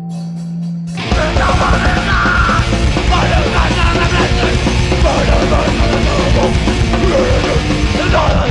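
Live hardcore punk band: a held electric guitar note with a few quick ticks, then about a second in the full band crashes in loud with distorted guitars and drums, playing on hard and fast.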